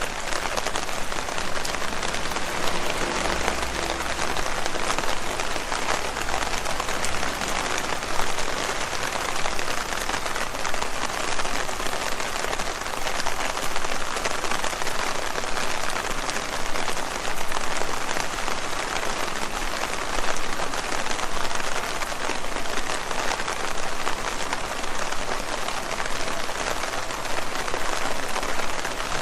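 Steady rain falling on leaves: a dense, even patter of countless drops.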